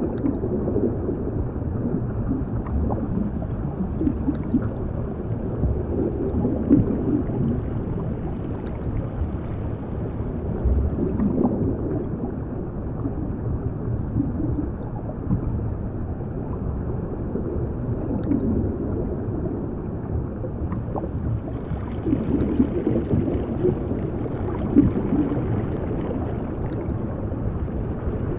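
Underwater ambience, heard as if through water: a continuous muffled low rumble with swells of bubbling and gurgling every few seconds.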